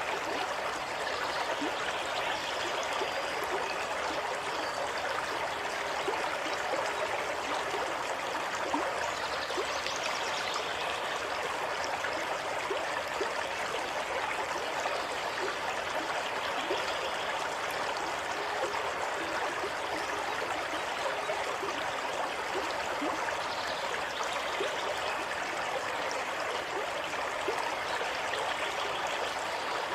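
Water running steadily over stones in a small stream, an even rush with light trickling and gurgling.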